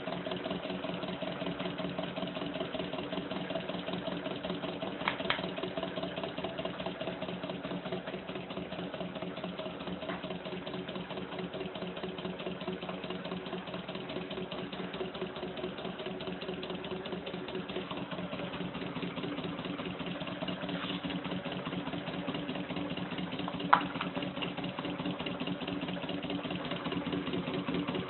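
Stirling engine running steadily, a mechanical hum at an even pitch. There is a double click about five seconds in and a single sharp click near the end.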